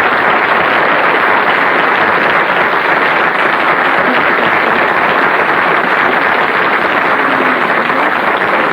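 Studio audience applauding, a loud steady clapping that holds throughout.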